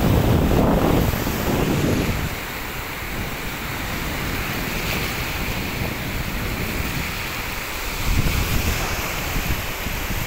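Rough sea surf breaking on a beach, with wind buffeting the microphone; a loud surge of breaking water in the first two seconds and another about eight seconds in.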